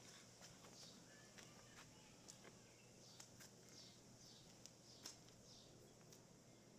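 Faint outdoor ambience: small birds calling at irregular intervals with short, high notes that fall in pitch, and a few light clicks scattered throughout.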